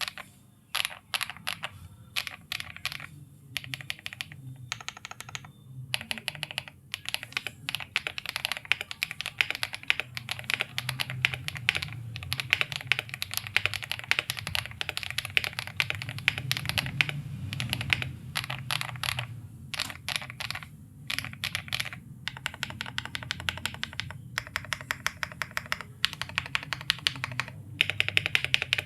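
Fully modded Xinmeng M71 mechanical keyboard with Hyacinth V2U switches being typed on quickly: dense runs of keystroke clacks broken by short pauses. Near the end comes a run of evenly spaced, louder single keystrokes.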